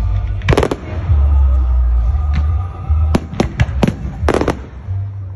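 Fireworks going off: a crackling burst about half a second in, then a quick string of sharp bangs between about three and four and a half seconds, over a low rumble.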